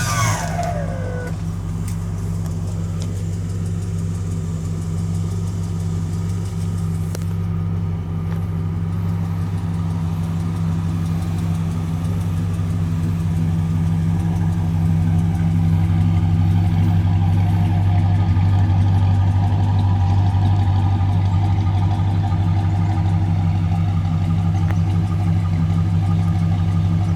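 1969 Chrysler 300's 440 V8 idling steadily, a little louder about halfway through. A short falling whine right at the start.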